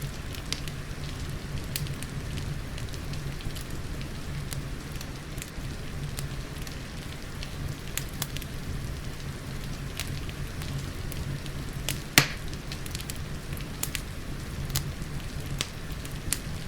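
Wood fire crackling in a fireplace, with scattered sharp pops (the loudest about twelve seconds in), over a steady low rumble and the soft patter of rain.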